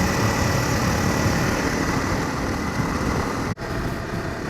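Honda CRF250 Rally's 250 cc single-cylinder engine running steadily at riding speed under loud wind noise. The sound cuts out for an instant about three and a half seconds in.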